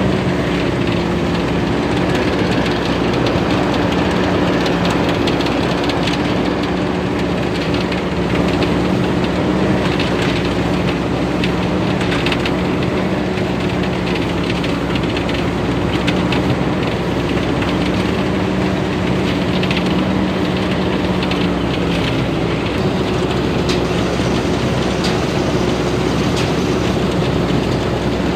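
TAMCO S9000 combine harvester's 260-horsepower Hino J08C diesel engine running steadily under load, with the continuous rattle and clatter of its harvesting machinery. The engine note dips slightly about three-quarters of the way through.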